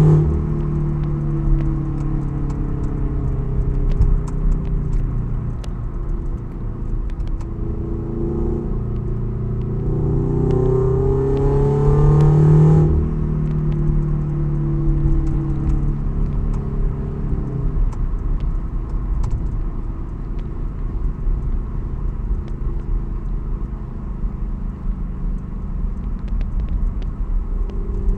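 Toyota 86's FA20 flat-four boxer engine through an unequal-length header exhaust, with its typical boxer rumble, under way. Its note climbs under acceleration about ten seconds in and drops suddenly near the middle. It then holds steady, and about two thirds of the way through it fades to a low road rumble as the throttle eases.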